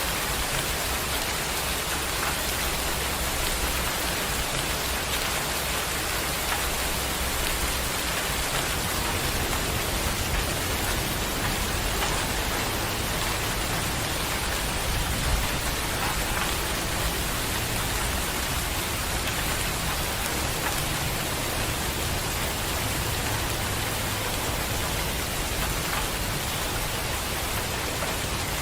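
Steady rain falling, with a low rumble of distant thunder underneath that swells and fades.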